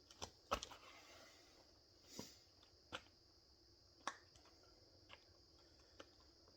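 Faint, irregular taps and knocks of body and equipment movement during a bodyweight and kettlebell workout, about seven of them, the sharpest about half a second in, over a steady high hiss.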